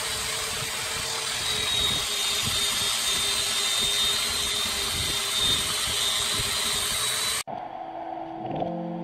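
A woodworking power tool running steadily, with a faint high whine over a noisy hiss. It cuts off abruptly about seven and a half seconds in, and background music with sustained keyboard-like notes comes in.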